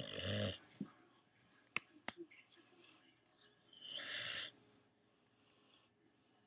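English bulldog snoring in its sleep: two rasping snores about four seconds apart, one at the start and one about four seconds in. Two sharp clicks come in between, about two seconds in.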